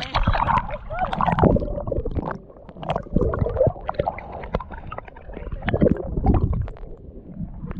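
Water gurgling and sloshing against the hull of a small boat, with irregular knocks and splashes.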